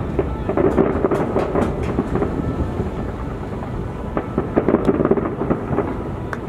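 Fireworks going off: a continuous rumble of booms, with clusters of sharp crackles about a second in and again around five seconds.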